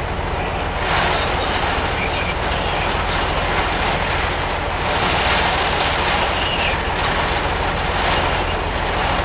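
Heavy rain pouring down, a steady hiss and rush that swells in gusts several times.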